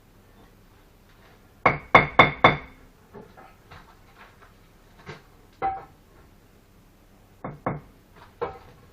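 Sharp knocks of a bricklayer's trowel tapping bricks down into mortar to level them: four quick strikes with a slight ring about two seconds in, then scattered lighter taps, a pair of knocks and a last one near the end.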